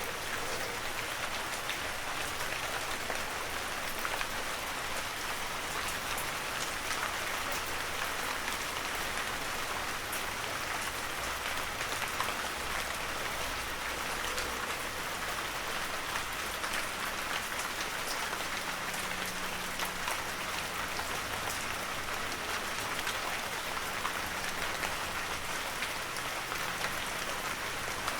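Heavy rain falling steadily: a dense, even hiss of countless drops, with single drop ticks scattered through it.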